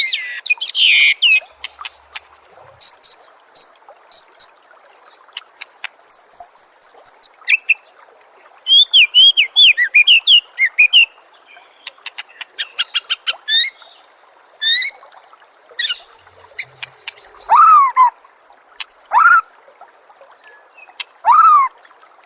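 White-rumped shama (murai batu) singing a varied song: rapid runs of sharp clicks, a held high whistle, quick chirping notes, and a few lower, louder whistles sweeping downward near the end.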